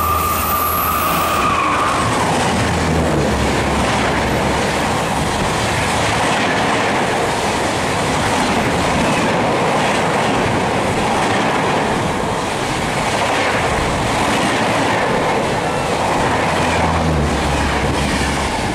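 Express train running through at high speed, its wheels clattering over the rail joints in a continuous loud rush. The tail of a horn blast dies away about a second in.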